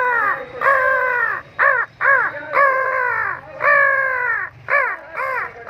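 A man mimicking a crow with his voice: a quick run of about nine harsh caws, each falling in pitch, some clipped short and some drawn out.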